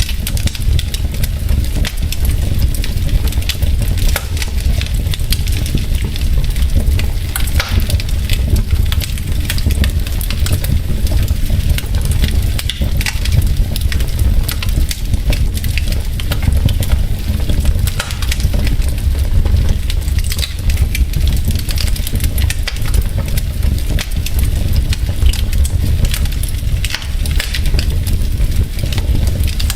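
Wood fire burning in a fireplace, the logs crackling with frequent small pops and snaps over a steady low rumble.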